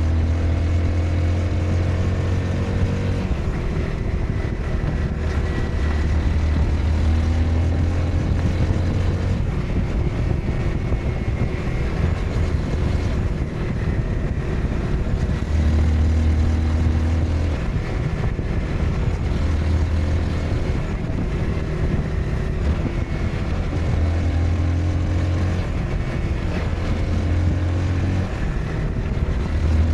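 Honda CBR 250R's single-cylinder engine running on the move, its pitch rising and falling as the throttle opens and closes, with wind rushing past.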